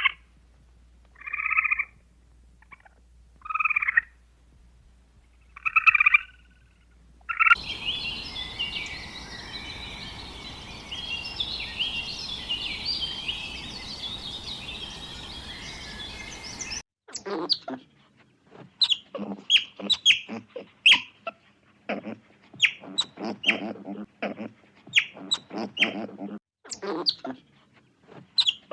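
Farm animals calling. First come four short separate calls about two seconds apart. Then, for about nine seconds, a flock of small birds chirps together over a steady hiss. It cuts suddenly to a quick run of short, sharp calls from birds.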